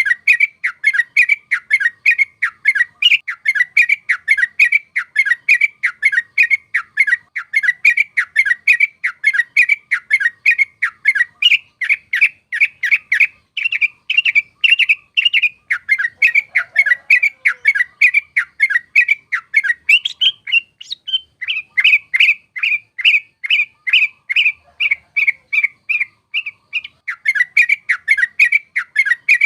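Yellow-vented bulbul singing a fast, rolling run of short bubbly notes, about three a second, with a brief pause about two-thirds of the way in.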